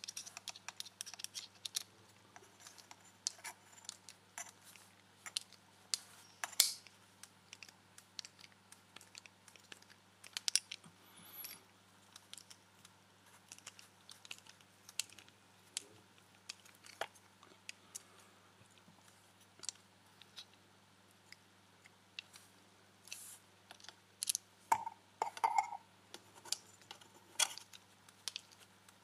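Irregular small clicks, taps and scrapes of hands handling and fitting small plastic parts and screws on an RC car body, with a busier run of clicks near the end and a faint steady electrical hum underneath.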